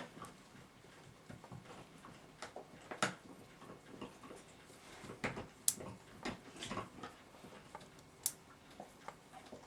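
Scattered light clicks and scrapes, unevenly spaced, as a cotton swab is pushed in among the coils of a clock mainspring and the steel turns shift and touch.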